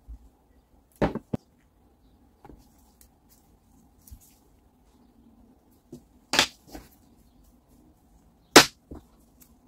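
A few sharp knocks and clicks of tools and metal parts being handled on a workbench, spaced a few seconds apart, the loudest about six and a half and eight and a half seconds in.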